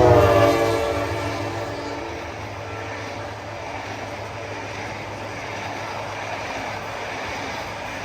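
The end of a diesel locomotive's horn, its pitch falling as the train passes, fading within the first second. Then the steady rushing rumble of an express train's passenger coaches rolling past at speed on the rails.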